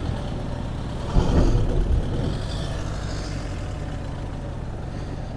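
A vehicle engine running steadily, with a brief louder swell about a second in.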